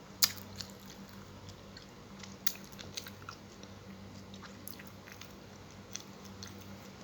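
Close-miked chewing and biting of fried tilapia, with scattered crisp crunches and mouth clicks, the loudest a sharp crunch about a quarter second in. A low steady hum runs underneath.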